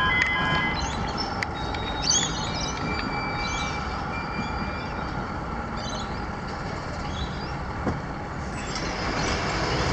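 Level crossing alarm tones cut off just after the start. Steady road traffic noise is left, from vehicles passing the crossing.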